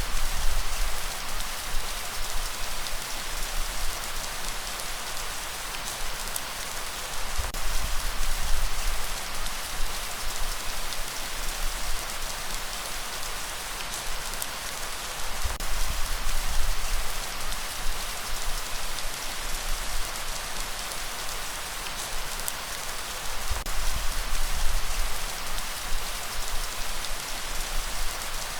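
Steady light rain falling, a dense even patter. A low rumble swells in about every eight seconds.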